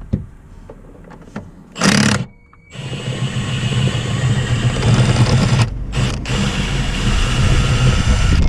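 Cordless power tool running on a fastener, in a short burst about two seconds in and then one long run of about five seconds with two brief breaks.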